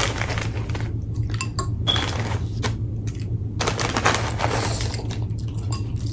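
Light clinks of dishes and utensils and rustling from food being handled at the table, with a few sharp clicks, over a steady low hum.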